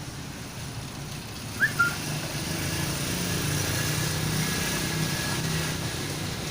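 A motor vehicle's engine running steadily and growing louder from about two seconds in, like traffic passing close by. A short high chirp sounds just before it swells.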